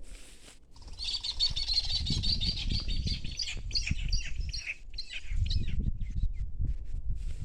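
Small birds chirping in a dense, rapid chatter that starts about a second in and thins to scattered calls after about four seconds. Low rumbling noise lies underneath.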